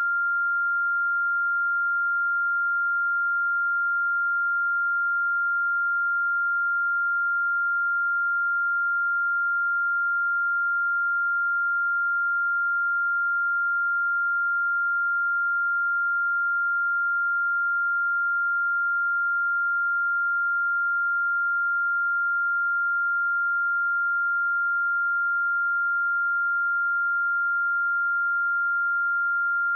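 A pure 1395 Hz sine-wave test tone, one steady high-pitched pitch held without change.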